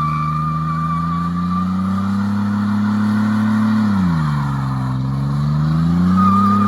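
Chevy S10 pickup running with no muffler, engine revving hard during a burnout with tires squealing. The revs drop sharply about four seconds in, then climb back up.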